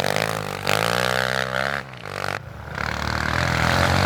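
Pit bike's small single-cylinder engine revving, its pitch swinging up and down. The throttle is cut for a moment about two seconds in, then it picks back up.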